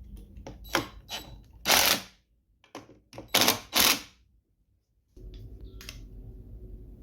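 A run of sharp clicks and knocks, with three short, loud rasping noises in the middle. It drops to near silence for about a second, then a low steady hum comes in with faint clicks over it.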